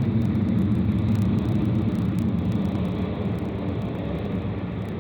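An engine rumbling steadily, loud at first and slowly fading away.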